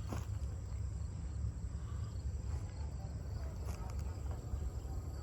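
Steady high-pitched insect trill, typical of crickets, over a constant low rumble, with a few faint clicks.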